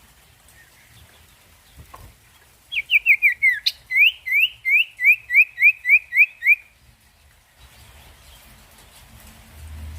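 Common iora (sirtu, cipoh) calling in a fast repeated run: about fifteen short rising notes, some four a second, lasting about four seconds from near the three-second mark.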